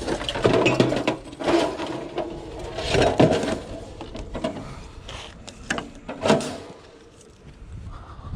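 Scrap being handled and moved: a run of irregular clanks, knocks and scrapes, with the heaviest knocks about three seconds in and again a little after six seconds.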